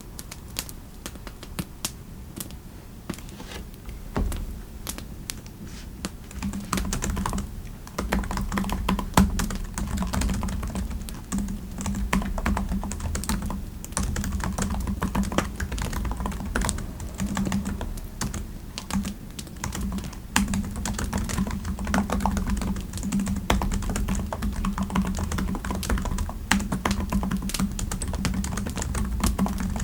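Typing on a computer keyboard: a steady run of quick keystrokes, sparse and lighter at first, then louder and busier with fuller key thuds from a few seconds in.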